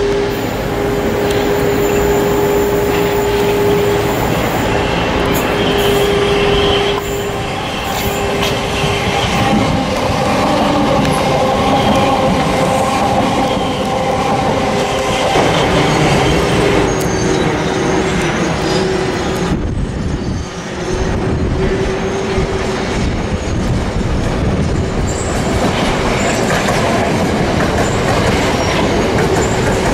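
Electric multiple-unit trains passing close on the track: a Southern Class 377 and then a Gatwick Express unit, with wheels clattering over the rail joints and a steady whine.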